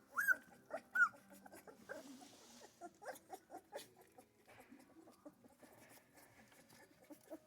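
Central Asian shepherd puppies whimpering, with a few short, high, rising-and-falling cries in the first second, then fainter scattered small noises.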